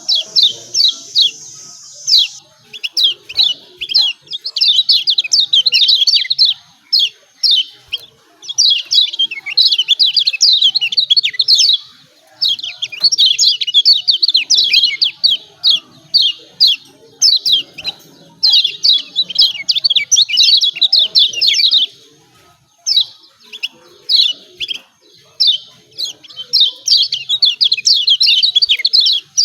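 Kecial kuning, a white-eye, giving its rapid 'ciak ciak' chirping call: fast, high notes that sweep downward, in excited runs of a few seconds with short gaps between them. This is the agitated call used as a lure to provoke lazy kecial kuning into singing.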